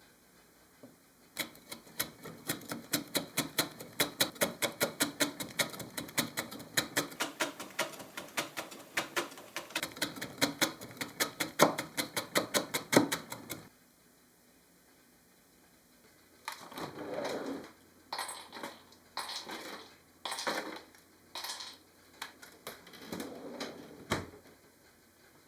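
Rapid, even tapping, about five sharp taps a second, that stops abruptly about halfway through; after a short pause come several short scraping or rustling noises.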